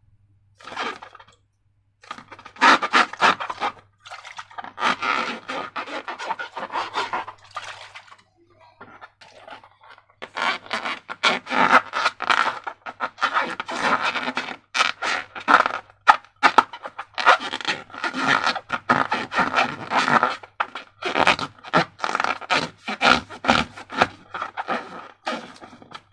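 Slime and balloons being handled: sticky crackling and scraping in bursts, almost continuous in the second half, over a faint steady low hum.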